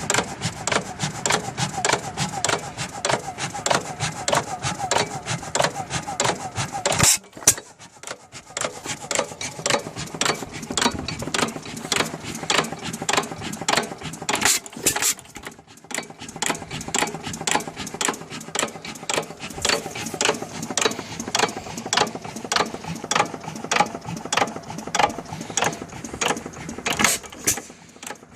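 5 hp Monitor hit-and-miss engine running, its mechanism giving a steady, regular rhythm of sharp clicks, briefly quieter twice.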